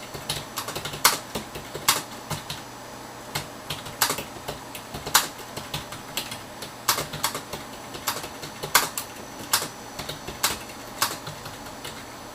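Typing on a computer keyboard: irregular keystrokes in short runs with pauses, a few key presses louder than the rest.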